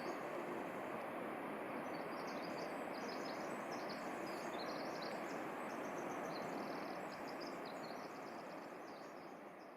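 Steady rush of a mountain river, with small birds chirping rapidly above it; the sound fades out near the end.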